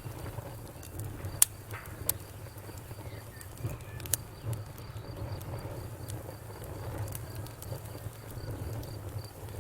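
Wood fire crackling: a steady low rumble of flames with scattered sharp pops, the loudest about a second and a half, two seconds and four seconds in.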